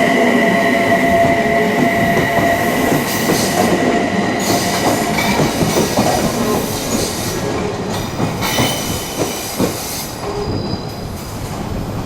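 Odakyu electric train running slowly past, its wheels squealing on the rails with steady high tones that die away in the first few seconds, followed by wheels knocking over rail joints as the sound slowly fades.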